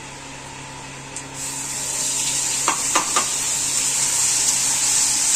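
Ground masala paste of cumin, garlic, ginger, mustard and onion hitting hot oil in a steel kadai. The sizzling starts about a second and a half in and grows louder, with three sharp metal clinks around the middle.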